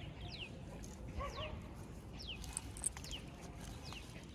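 A bird calling over and over, short high whistled notes that each fall steeply in pitch, about every half second, against a faint outdoor background. A single sharp click comes about three seconds in.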